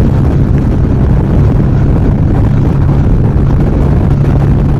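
Steady wind rush on a helmet-mounted microphone at motorway cruising speed, over the even drone of a Yamaha XV950R's air-cooled V-twin engine. The wind gets in under the chin of the helmet.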